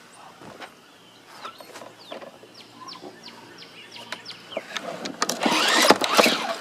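Small falling bird chirps repeat faintly over a quiet background. About five seconds in, a push mower's recoil starter rope is pulled and the engine cranks over without firing. This is a spark test with the plug grounded on the frame, and the ignition is giving no spark.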